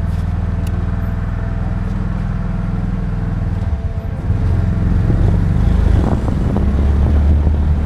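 Roadster's engine running as the car pulls away from a standstill, getting louder about four seconds in as it picks up speed.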